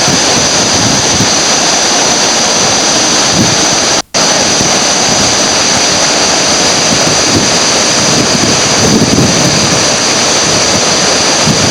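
Steady loud rush of whitewater river rapids, with the sound cutting out for an instant about four seconds in.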